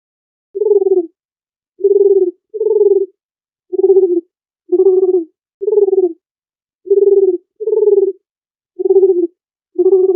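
A dove cooing: a series of about ten short, low coos, each about half a second long, coming roughly once a second with silence between them.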